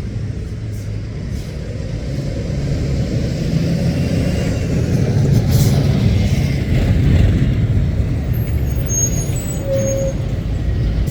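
Lorry's diesel engine running and growing louder over the first seven seconds, with a short hiss of air brakes about five and a half seconds in and brief high squeaks near the end.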